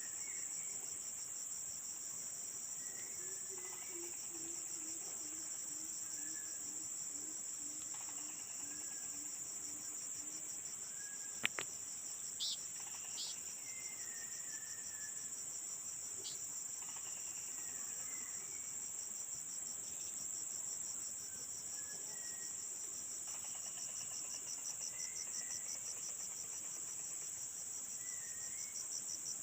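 Steady, high-pitched chorus of forest insects, a fast even pulsing drone, with faint short bird chirps scattered through it. A slow series of low notes runs during the first third, and a single sharp click sounds about eleven seconds in.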